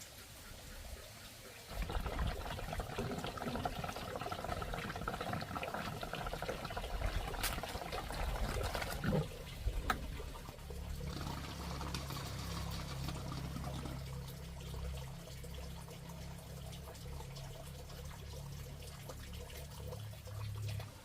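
Water pouring and running, starting about two seconds in; about halfway through it changes to a steady low rush, which stops abruptly at the end.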